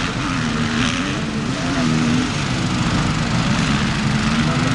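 Enduro motorcycle engines running, their pitch rising and falling as the throttle is worked.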